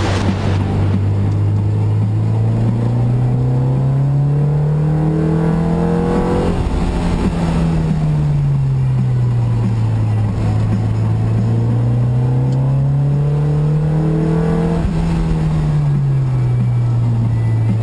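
Car engine heard from inside the cabin, pulling up through the revs for about six seconds, then easing off as the pitch falls. It climbs again and eases off a second time near the end.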